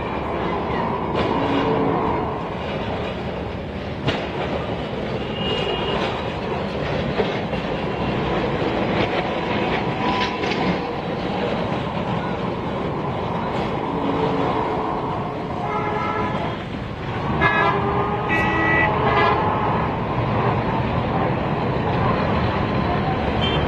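Diesel street tram running, its engine and wheels on the rails making a steady noise, with street traffic around it. Several horn toots sound between about 16 and 19 seconds in.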